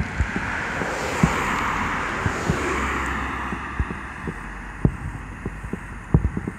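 Distant fireworks: an irregular series of dull booms, with a hissing wash in the first half and several booms close together near the end.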